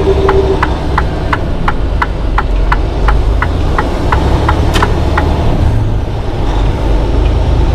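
Semi truck's engine running steadily with a low drone inside the cab, while the turn signal clicks about three times a second and stops about five seconds in.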